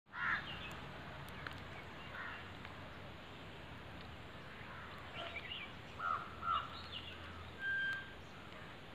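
Scattered short bird calls over steady outdoor background noise, with a brief held single-pitch note near the end.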